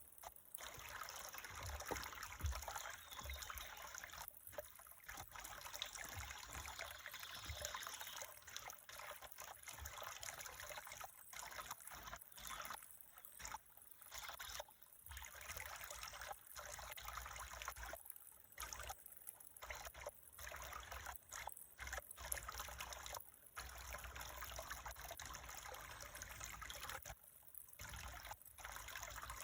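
Trickling water, a steady faint trickle that dips briefly several times.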